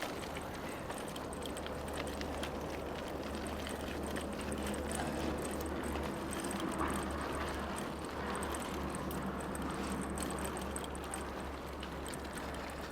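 Bicycle tyres rolling over a gravel trail: a steady crunching rumble with faint ticks and rattles.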